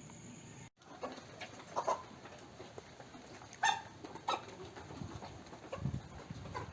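Chickens in a poultry pen calling faintly: scattered short peeps and clucks, the loudest about four seconds in.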